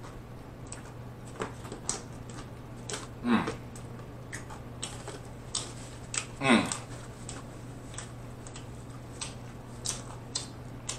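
Close-up mouth sounds of a man chewing food with his mouth closed: soft wet clicks and lip smacks. Two louder sounds fall in pitch, about three and six and a half seconds in. A steady low hum runs underneath.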